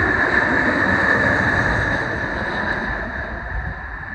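Jet aircraft engine noise: a loud, steady rush with a high whine, slowly fading as the plane moves away.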